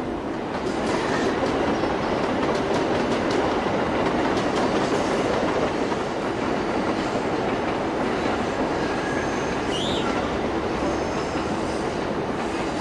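Train running on the tracks, its wheels clicking over rail joints, with a short high wheel squeal about ten seconds in.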